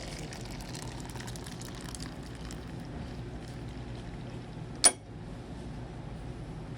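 Coffee pouring from a dispenser into a cup over a steady background hum, with one sharp click about five seconds in.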